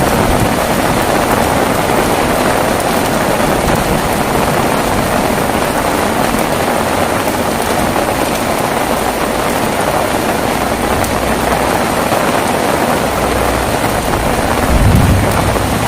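Heavy rain falling steadily, a dense even hiss. Near the end a low rumble comes in and swells briefly.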